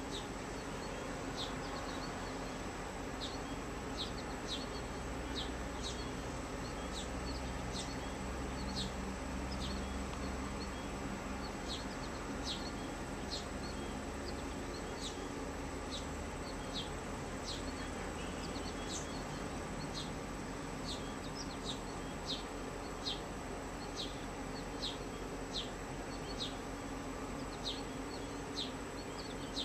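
Small birds chirping in short, sharp notes, irregularly about once or twice a second, over a steady low rumble.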